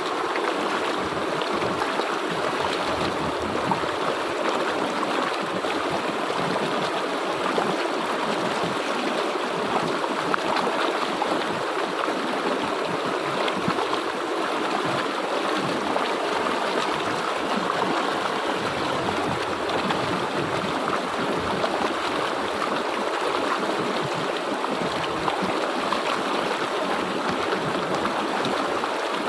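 Water of a stream flowing over rocks, a steady rushing and gurgling that does not change.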